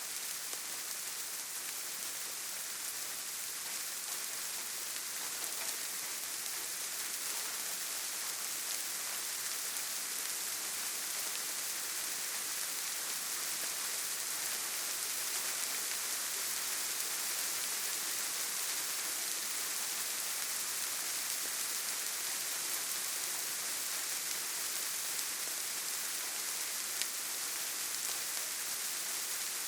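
Steady rain falling, an even hiss with no let-up, and one brief click near the end.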